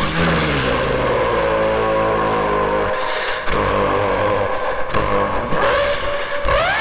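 A person's vocal imitation of a V12 supercar engine, made with the mouth. It holds a steady, buzzing engine note, breaks briefly partway through, then rises sharply in pitch near the end like a rev.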